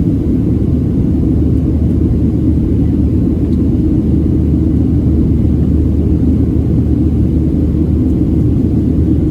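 Boeing 737-700 airliner's CFM56-7B jet engines and airflow heard from inside the passenger cabin as a steady, deep rumble.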